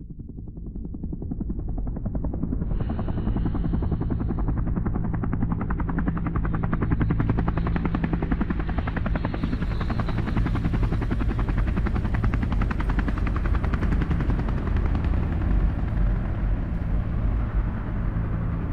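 Helicopter rotor chop and engine, fading in over the first couple of seconds, then holding steady with a fast, even beat of the blades.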